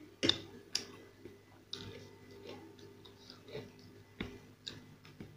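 Mouth sounds of a person eating masala dosa: chewing with several sharp clicks and smacks, the loudest about a quarter of a second in. A steady low hum runs beneath.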